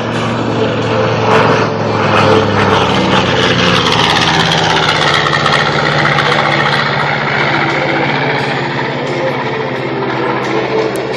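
Twin Wright R-2600 fourteen-cylinder radial engines of a B-25J Mitchell bomber passing overhead in a flyby, loud and steady, their pitch dropping about three seconds in as the plane goes by.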